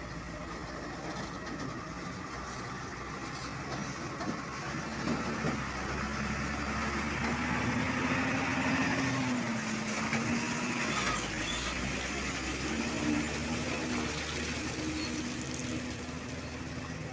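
Diesel truck engine running, its note rising and wavering as it grows louder through the middle, then easing off toward the end.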